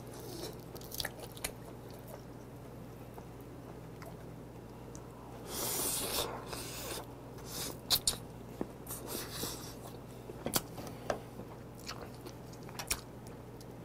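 Close-miked eating: biting and chewing pork meat off a stew-soaked neck bone, with scattered small clicks and a louder sucking stretch about six seconds in as the bone is held to the mouth.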